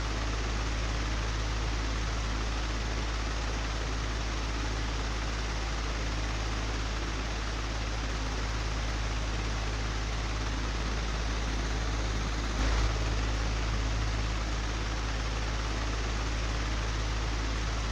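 Old, broken electric fan running steadily: an even rush of air over a low motor hum, with one short knock about two-thirds of the way through.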